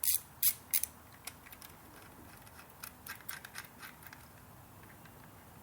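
Hand ratchet with a T30 Torx bit clicking in three short bursts in the first second as a bolt is undone, then fainter scattered clicks over the next few seconds.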